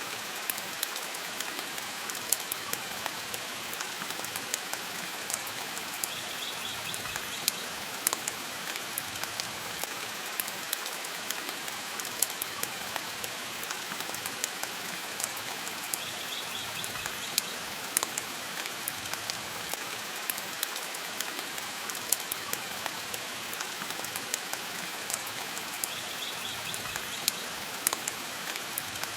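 Steady rain hiss with a wood fire crackling in the hearth, sharp pops scattered irregularly through it.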